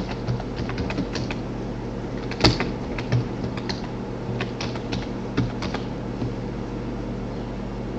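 Typing on a computer keyboard: irregular keystrokes, one of them louder, that stop about six seconds in, over a steady low hum.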